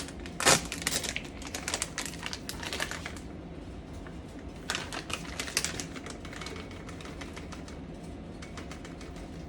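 Kitchen handling sounds as sun-dried tomatoes are taken out and added: quick irregular clicks and taps of a utensil and container, with one louder knock about half a second in and lighter rapid clicking later.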